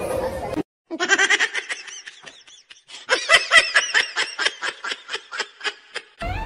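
A person laughing hard in quick, pitched bursts of several a second: a short run, a brief lull, then a longer run.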